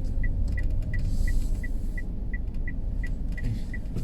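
Car driving slowly with low engine and road rumble, and a turn-signal indicator ticking evenly about three times a second while the car turns into the campsite entrance.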